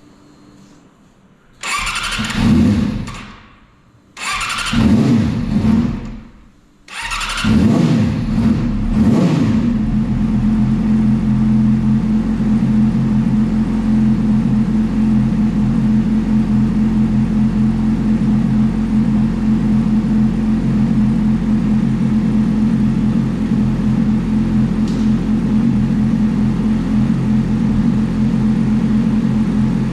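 Yamaha YZF-R6 inline-four motorcycle engine being started with difficulty. Twice it fires, revs briefly and dies away. On the third try it catches, is revved, and keeps running steadily. This is hard starting: it will only hold an idle after being revved to about 4000 rpm, which the owner takes as a sign that something is wrong.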